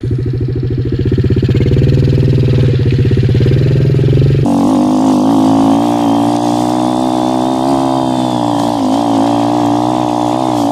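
Motorcycle engine running, at first with a low, pulsing note. About four and a half seconds in it switches abruptly to a higher, steadier note that rises and falls slightly with the throttle.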